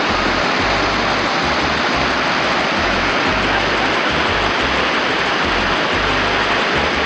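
Waterfall rushing: a loud, steady wash of falling water, with uneven patches of low rumble underneath.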